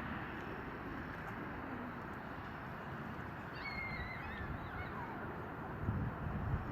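A bird gives a short wavering call about three and a half seconds in, over a steady rushing background noise.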